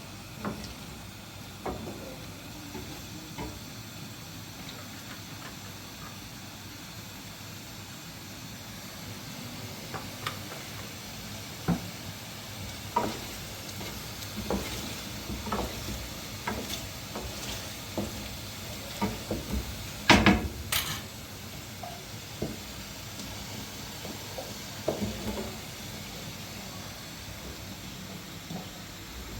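Steady hiss with scattered clicks and knocks of objects being handled, the loudest a sharp double knock about twenty seconds in.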